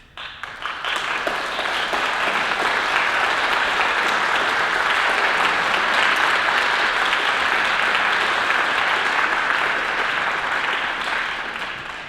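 Audience applauding: the clapping breaks out suddenly, swells over about two seconds, holds steady, and dies away near the end.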